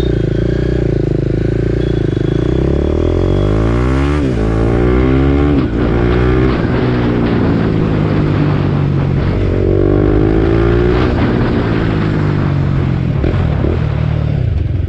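BMW G310R's single-cylinder engine running through an aftermarket replica Akrapovič exhaust while riding. The revs climb with sharp drops about four and six seconds in as it shifts up, then hold steady before easing off near the end. It sounds good, without any extra noise.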